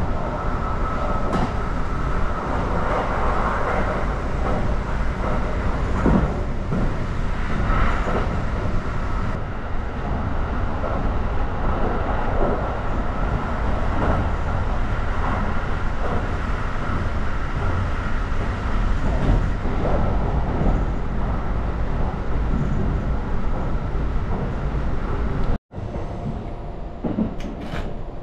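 Kintetsu Hinotori limited express running, heard inside the carriage: a steady rumble of wheels and car body with a faint steady whine. Near the end, a few sharp clicks as a key turns in a luggage locker's lock.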